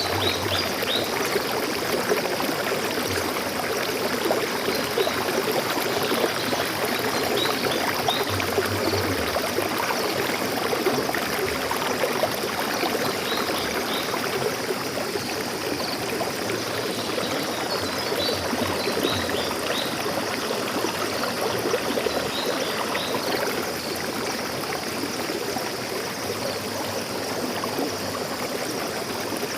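Steady rush of flowing stream water, with a few faint high bird chirps near the start and again about two-thirds of the way through.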